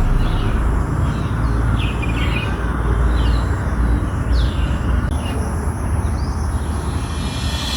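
A small bird chirping over and over, short falling chirps about one or two a second that stop after about five seconds, over a steady low rumbling noise.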